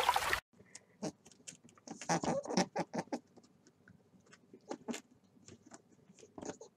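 A rabbit chewing a plant stalk: an irregular series of short crisp clicks and crunches, thickest in the middle. It comes after a brief loud rush of noise that cuts off about half a second in.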